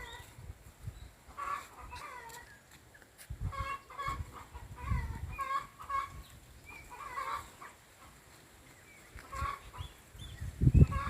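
Chickens clucking again and again, with dull low thumps of logs being set down on a pile of wood, the loudest of them near the end.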